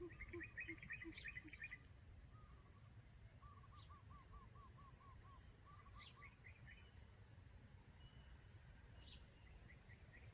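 Faint quail calls used as a lure: trains of short repeated notes, a low series at the start, a quick higher trill in the first two seconds and a mid-pitched series around the middle. A few thin high sweeps are scattered through it.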